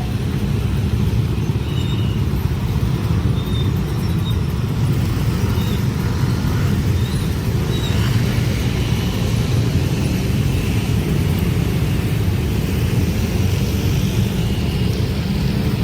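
A train rolling past a railway level crossing: a steady, heavy low rumble.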